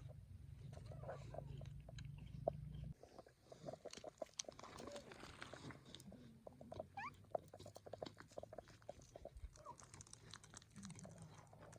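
Kitten chewing and biting, faint small crunching clicks scattered throughout. A low steady hum underlies the first three seconds and cuts off abruptly.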